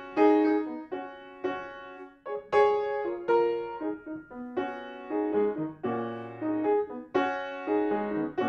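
Solo piano playing a piece: struck chords and short melodic figures, each attack decaying before the next, with bass notes entering about halfway through.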